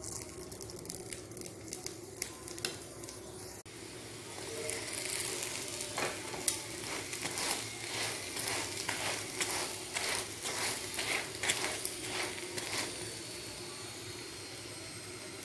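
Mince-stuffed paratha frying in ghee on a hot tawa, sizzling steadily. From about six seconds in, a flat metal turner presses and scrapes it against the griddle about twice a second.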